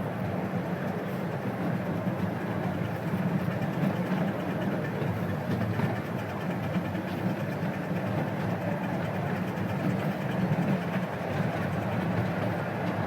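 A 12-inch gauge steam locomotive running with its train, a steady noise of the engine and wheels on the track.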